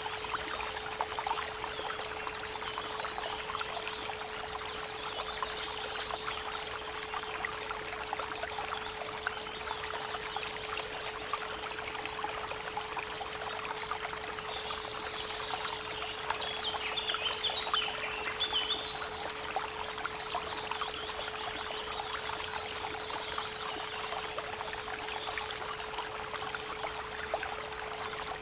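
A steady 432 Hz pure tone held under creek water babbling over stones, with small birds chirping and trilling now and then.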